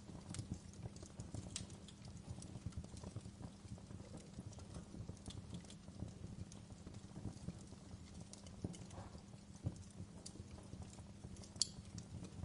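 Crackling fireplace fire: irregular sharp pops and snaps over a steady low rumble, with one louder pop near the end.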